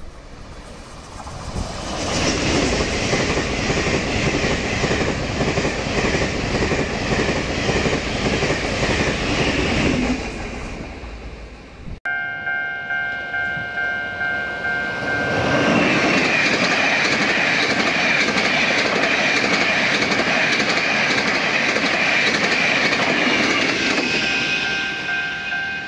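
Taiwan Railway trains passing at high speed, two passes one after the other: loud rushing wheel and air noise with clickety-clack over the rail joints. Around the start of the second pass, a pulsing tone sounds about twice a second; it is lost under the train noise, then returns near the end.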